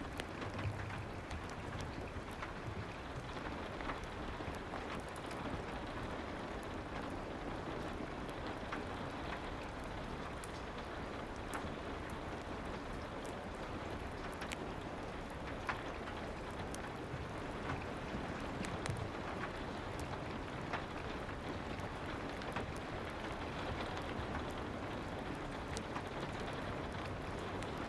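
Steady soft rain, with scattered light crackles from a fireplace.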